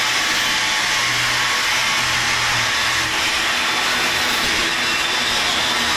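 Angle grinder with a cutoff disc running and cutting steel: a steady, loud, high-pitched grinding hiss.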